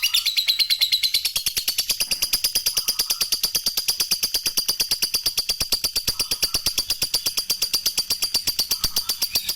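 Lovebird ngekek: one long, unbroken chattering trill of rapid, high, harsh notes at about ten a second.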